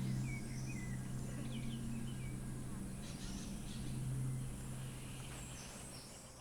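Outdoor ambience of small birds chirping in short calls over a steady low hum and hiss. The chirps fall in the first half, and the whole bed grows quieter toward the end.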